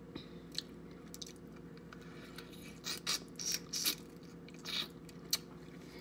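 Close-up eating sounds of a person chewing king crab meat: wet smacking and crackling clicks, with a run of louder bursts in the middle.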